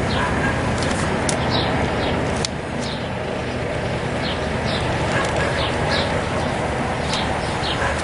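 Small birds chirping in short, high, falling calls, repeated every second or so, over a steady background rumble and hiss.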